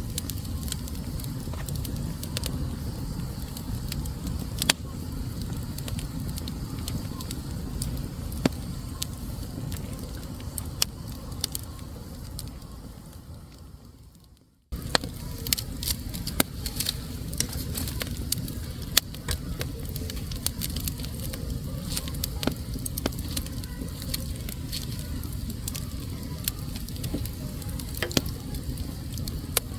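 Wood fire burning in a fireplace: a steady low rumble of flames with scattered sharp crackles and pops. About halfway through, the sound fades away over a couple of seconds, drops briefly to silence, then cuts back in suddenly, like a loop joint.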